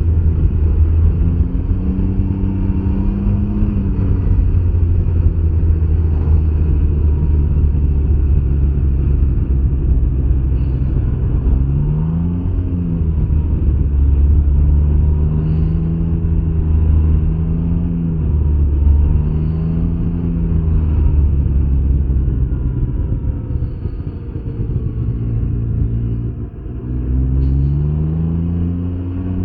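Can-Am Ryker 900's three-cylinder Rotax engine running under way over a steady low rumble, its pitch climbing and falling several times as the throttle is opened and eased off, with a clear climb about twelve seconds in and another near the end.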